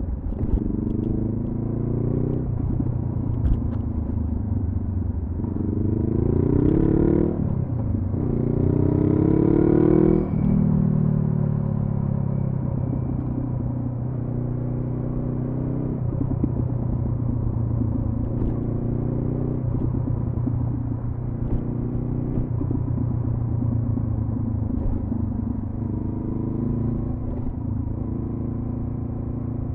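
2014 Honda CB500F's parallel-twin engine through a Delkevic carbon slip-on exhaust, ridden on the road. It revs up twice, rising in pitch between about five and ten seconds, drops sharply just after ten seconds as the throttle closes, then runs on at a steadier cruise with small rises and falls in pitch.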